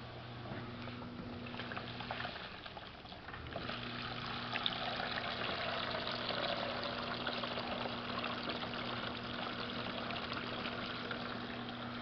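Samsung VRT WF448 washing machine's drain pump humming while water pours out into a bucket. The hum drops out for about a second, a few seconds in, and the splashing of water then grows stronger.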